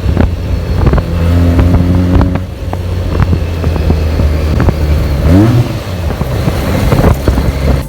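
Benelli TNT 300's parallel-twin engine running through its stock exhaust, with a steady low note and a quick rev that rises in pitch about five seconds in.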